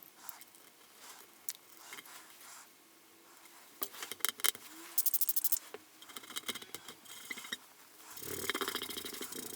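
Hand work on guitar parts during disassembly: scattered small clicks and knocks, a fast run of even clicks about five seconds in, and a scraping rustle near the end.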